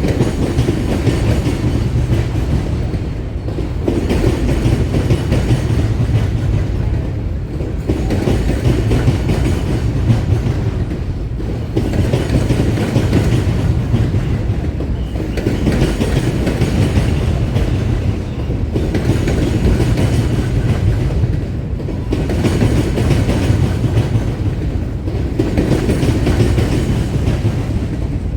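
Railroad cars rolling past close by: a continuous heavy rumble of wheels on rails that swells and dips every three to four seconds as each car goes by.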